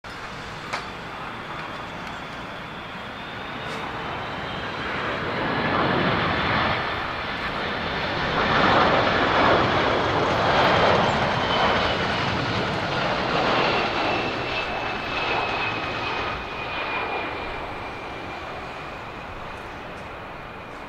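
Boeing 767-300ER airliner's jet engines passing by, swelling to their loudest about halfway and then fading. A high fan whine falls steadily in pitch as the plane goes past.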